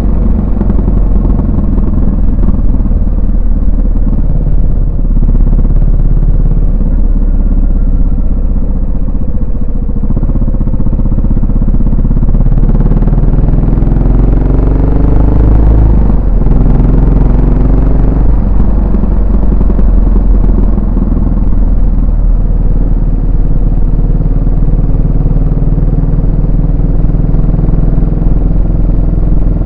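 Yamaha SR400's single-cylinder four-stroke engine and exhaust running under way. The pitch climbs steadily for a few seconds mid-ride, then drops suddenly about sixteen seconds in.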